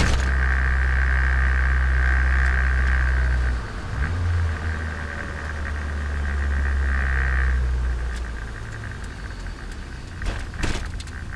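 Turbocharged Nissan Micra engine running under way, heard from on board: a steady engine note with a brief dip about three and a half seconds in, then steady again before it eases off and goes quieter from about eight seconds. A couple of sharp clicks near the end.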